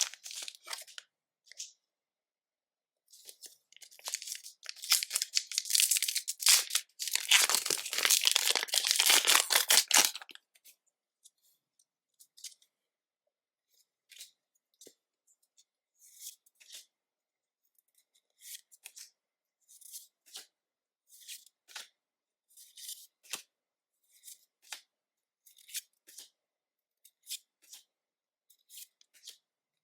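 Pokémon card packaging torn open and crinkled for several seconds, then light scattered rustles and taps as cards and packs are handled.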